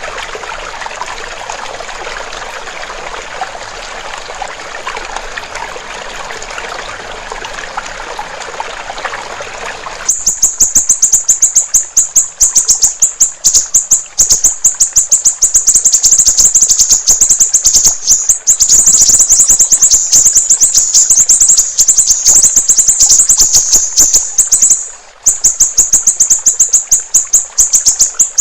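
Water trickling steadily. About ten seconds in, it cuts abruptly to the song of a siri-siri bird: a loud, very fast run of high, thin chirps, broken by one short pause near the end.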